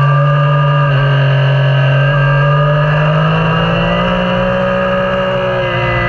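Yamaha Niken's 847 cc inline three-cylinder engine running under way. Its pitch rises gradually a few seconds in and eases off near the end.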